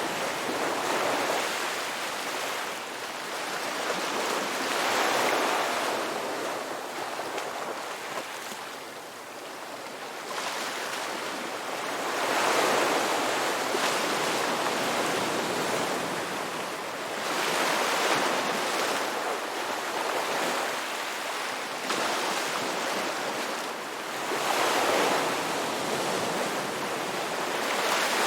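Ocean surf: waves breaking and washing up the shore, a continuous rushing noise that swells and ebbs every few seconds.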